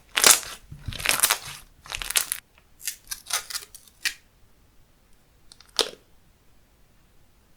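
Handmade slime being squeezed and pressed by hand: a run of crackling, crunching squishes over the first two seconds or so, then smaller pops and clicks, and one more sharp crackle near six seconds.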